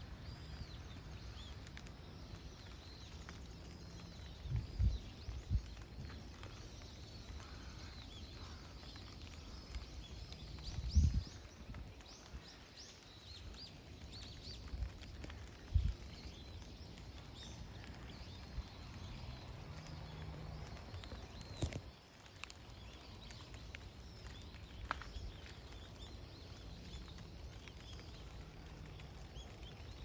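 Small wild birds chirping and calling on and off over a steady low rumble. A few dull thumps break in, the loudest about eleven seconds in.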